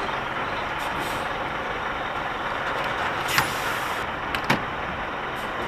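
Lorry's diesel engine running steadily, heard from inside the cab, with two short clicks a second apart a little past the middle.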